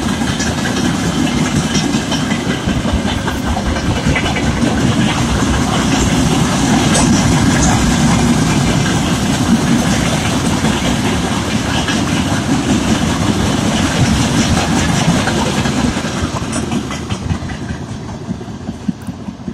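Mixed freight train rolling past, its wheels clattering over the rail joints, fading near the end as the train draws away.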